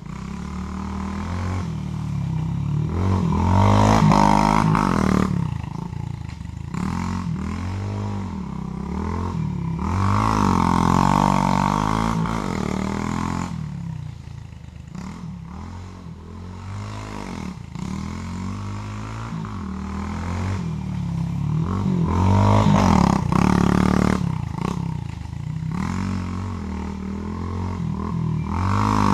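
Pit bike engine revving up and down as it laps a small dirt track, the pitch rising and falling with the throttle. It swells loudest as the bike passes close, about four seconds in, around eleven and twenty-three seconds, and again at the end.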